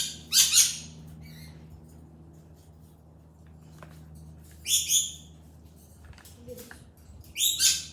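Pet bird giving three short, shrill squawks: one just after the start, one about halfway, and one near the end. A faint low steady hum runs underneath.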